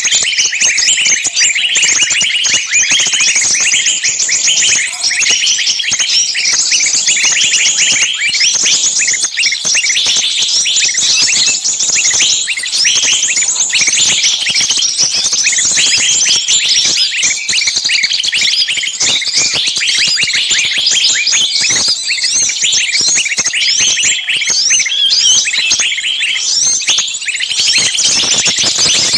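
Many small birds chirping at once: a dense, continuous chatter of high, overlapping chirps.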